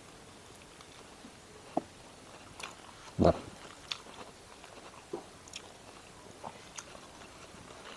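A person chewing a mouthful of food close to the microphone, with scattered small wet clicks and crunches from the mouth.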